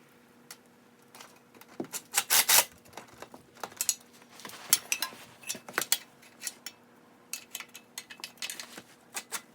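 Metal hand tools clinking and clicking irregularly on exhaust hardware while the exhaust flange and hangers are being bolted back on, with a louder cluster of clatter about two seconds in.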